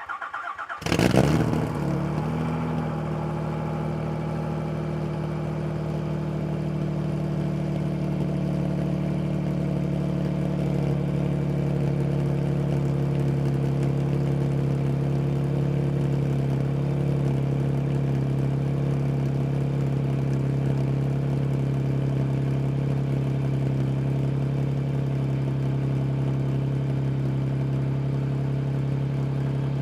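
Toyota 7M-GE inline-six engine started from cold: the starter cranks briefly, the engine catches about a second in with a short flare of revs, then settles into a steady cold idle.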